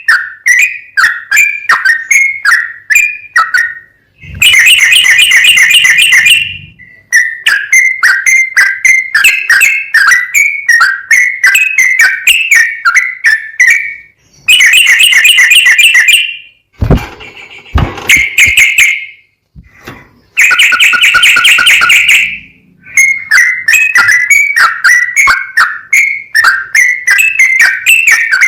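Yellow-vented bulbul (trucukan) singing: a run of short, clear whistled phrases repeated at a steady pitch, broken three times by fast, loud, rolling trills of about two seconds each, with brief silences between sections.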